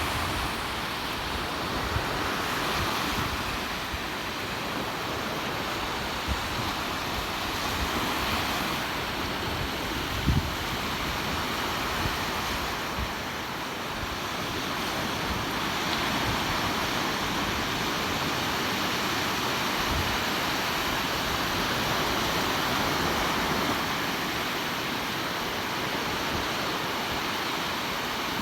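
Surf washing onto a beach, swelling and easing every few seconds, with wind gusting on the microphone in a few low thumps.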